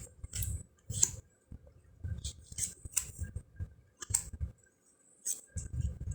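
Round fortune cards being handled and flipped through one after another: a run of short slides and soft taps, roughly one or two a second.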